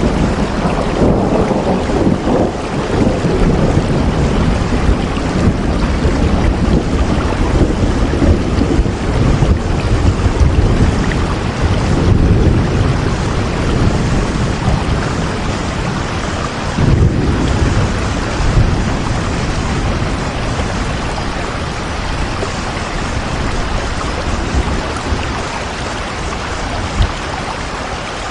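Steady heavy rain falling, with deep rumbling swells that come and go, strongest near the start and again about halfway through.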